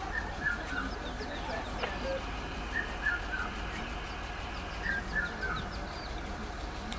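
Short, high chirping calls, three in quick succession, repeated about every two seconds, with many fainter quick downward chirps above them. A steady low hum runs underneath.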